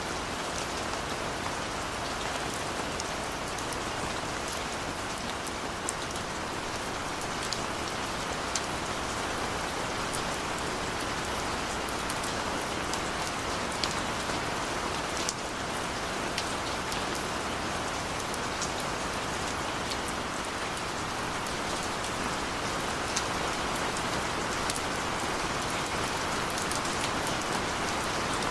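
Steady rain falling, with a constant hiss and scattered sharp drop ticks.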